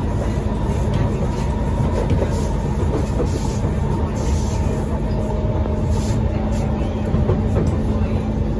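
Cabin noise of a Kawasaki Heavy Industries C151 metro train running between stations: steady wheel-on-rail running noise with a steady low hum.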